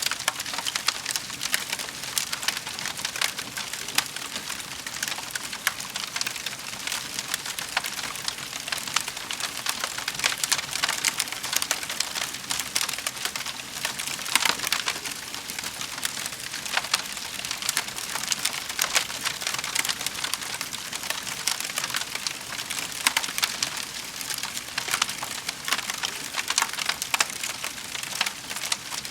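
Wood fire crackling in a fireplace: a dense, steady run of small snaps and crackles.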